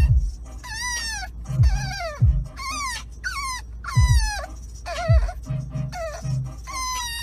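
A dog whining in a string of high cries that fall in pitch, about one a second, with short low thumps under some of them.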